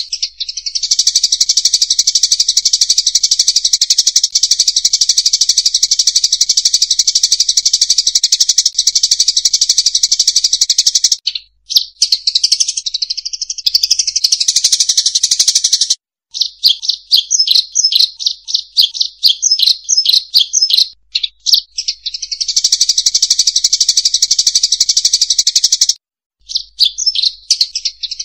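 Munias (emprit sawah) chattering as a flock: a loud, dense stream of high chirps, the lure call used to draw munias in. It breaks off briefly about three times, and in the middle turns to separate chirps repeated several times a second.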